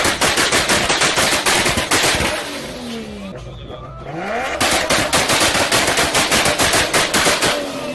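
High-performance car engine revving, firing two bursts of rapid machine-gun-like exhaust bangs, each about three seconds long. In the gap between the bursts the engine note falls and then rises again.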